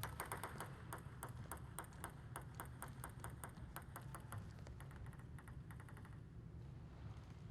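Table tennis ball bouncing in light, quick ticks, about three or four a second, stopping about six seconds in.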